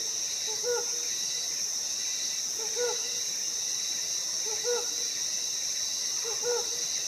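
Helmeted hornbill giving single hoots, one about every two seconds, four in all, against a steady high buzz of forest insects.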